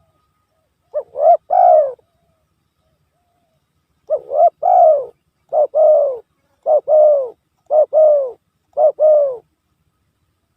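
Spotted dove (tekukur) cooing, a recorded lure call: one three-note phrase, a pause, then a run of two-note coos, a short note then a longer falling one, about once a second.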